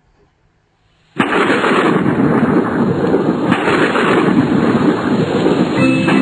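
Heavy rain with thunder, starting suddenly about a second in after near silence and running on as a steady, loud downpour. Guitar music comes in near the end.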